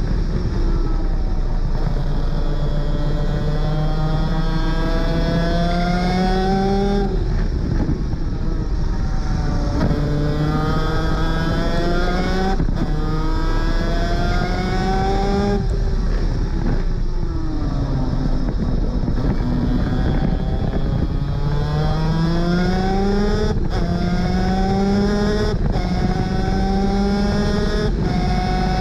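A Superkart 250's 250cc two-stroke engine at racing speed, the note climbing sharply in pitch through each gear and breaking off at every upshift, about eight shifts in all. Near the middle the pitch falls for a while as the kart slows, then climbs again.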